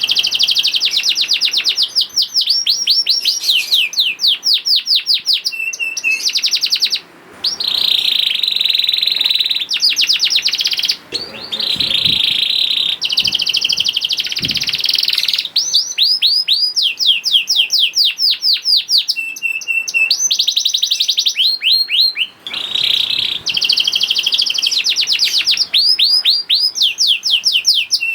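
Domestic canary singing a long song of rapid trills, each run of fast repeated notes switching to a new phrase every second or two, with a few brief breaks.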